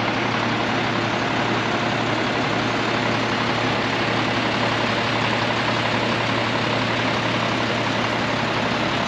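International grain truck's engine idling steadily with a constant low hum.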